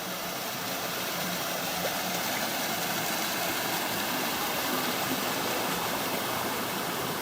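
Creek water running and falling in a steady rush that grows slightly louder.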